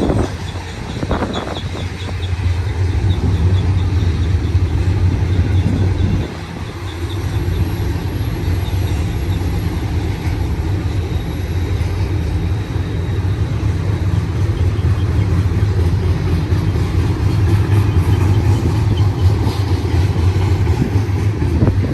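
BNSF double-stack intermodal freight cars rolling past on the main track, a steady low rumble of steel wheels on rail.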